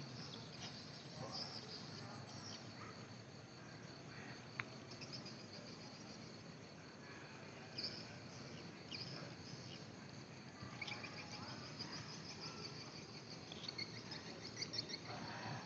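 Insects chirping faintly: a steady high trill with scattered short chirps over a low background rumble.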